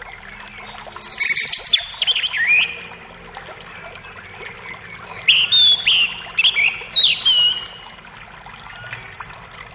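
Several forest birds singing and calling over a creek's faint steady running water. A high thin whistle and a rapid trill come about a second in, a run of sharp calls comes between about five and seven and a half seconds, and another high whistle comes near the end.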